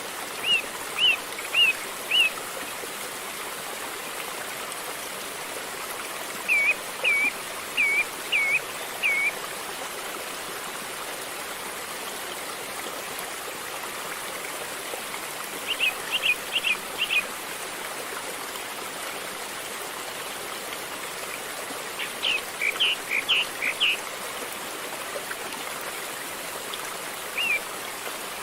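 River water flowing steadily, with a bird calling over it in short runs of four or five high chirps every several seconds.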